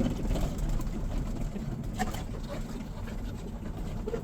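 Tanker semi-truck driving, heard from inside the cab: a steady low engine and road rumble, with a light click about two seconds in.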